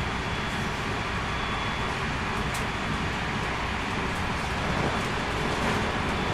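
Interior running noise of a JR West 223 series 2000 electric train with a Hitachi IGBT inverter drive, heard from inside the motor car: a steady rumble of wheels and motors with a faint high tone. One sharp click comes about two and a half seconds in.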